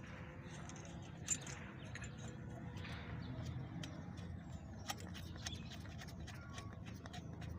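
Faint, scattered clicks and knocks of hand tools and metal engine parts being handled as the crankshaft's main bearing caps are fastened, over a steady low background hum.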